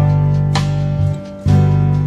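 Background music: strummed acoustic guitar, with a strum about half a second in and another near the middle.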